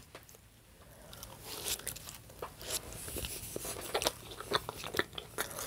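A person biting and chewing breakfast food. About a second of quiet, then many small irregular crunches and clicks.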